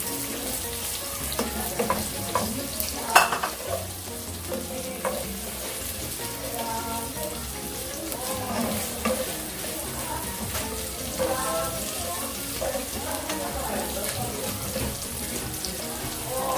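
Onion, garlic and ginger sautéing in hot oil, sizzling steadily as they are stirred in the pan, with scattered clinks and one sharp knock about three seconds in.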